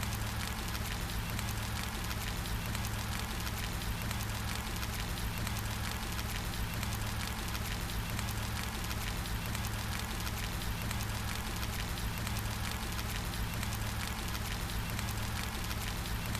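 Steady rain falling: a continuous hiss made of many fine drop ticks, with a steady low rumble underneath.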